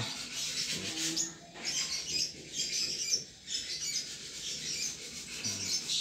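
Small birds chirping in the background, a busy scatter of high-pitched chirps with two short pauses.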